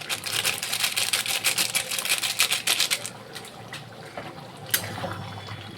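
Rapid run of sharp clicks, about ten a second, from a kitchen utensil working in the cooking, lasting about three seconds. It then thins to a few scattered knocks.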